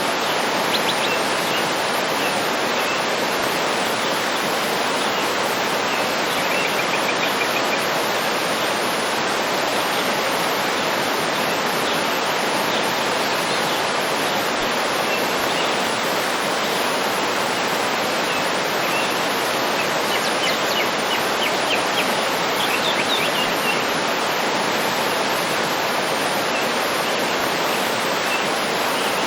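Waterfall pouring steadily, an even wash of water noise. Faint, short bird chirps come through it now and then, with a small cluster about two-thirds of the way in.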